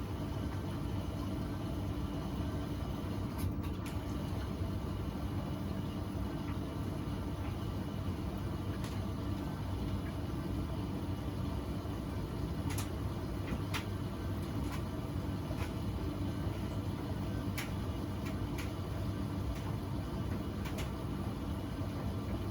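Beko washing machine running a wash cycle: a steady low hum from the machine, with a few sharp clicks or taps from inside the drum now and then.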